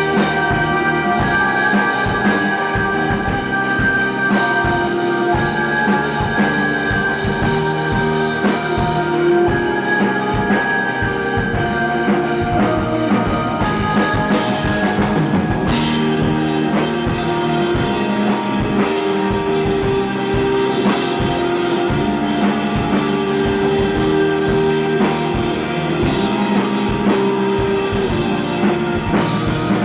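Indie rock band playing live: drum kit and guitars over held, sustained notes, with a short break about halfway through before the band comes back in.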